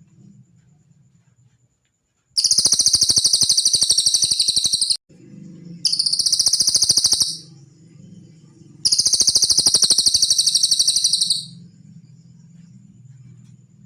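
Cililin bird singing: three long, very rapid, high-pitched trills of a couple of seconds each, with short pauses between, over a faint low hum.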